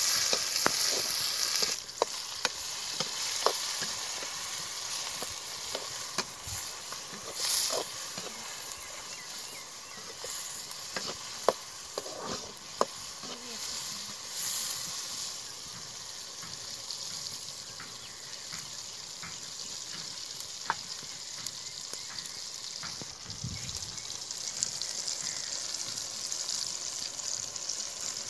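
Sliced onions and tomatoes frying in oil in a black iron kadai, sizzling steadily; the sizzle is loudest for the first couple of seconds, then settles lower. A metal slotted spoon stirring against the pan gives scattered clicks and scrapes.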